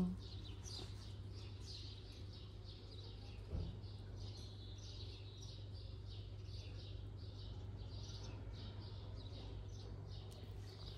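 Small birds chirping faintly and repeatedly, about two or three chirps a second, over a steady low hum, with one soft knock about three and a half seconds in.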